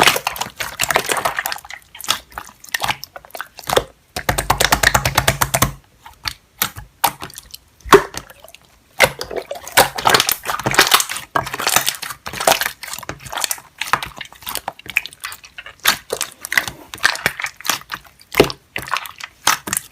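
Slime being squished and poked by hand: wet clicks and crackling pops, with a quick run of rapid clicks about four seconds in.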